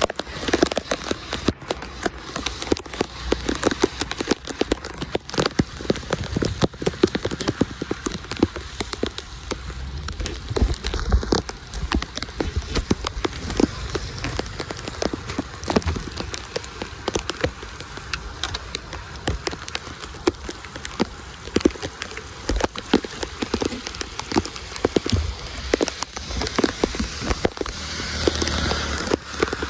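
Heavy rain falling on a flooded street, a dense, irregular spatter of drops, with floodwater rushing into a curb drain inlet.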